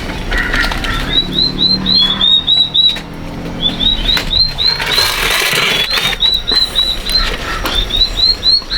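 A small bird chirping in quick runs of short, high, hooked notes, about five a second, pausing briefly between runs. There is a burst of rustling noise about five seconds in.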